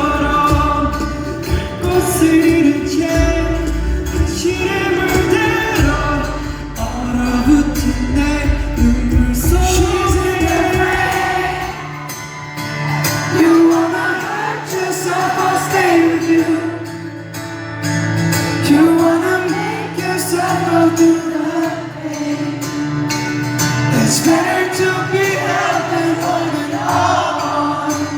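Live band music with singing, in a large hall. The deep bass drops out about twelve seconds in, while the vocals and higher instruments carry on.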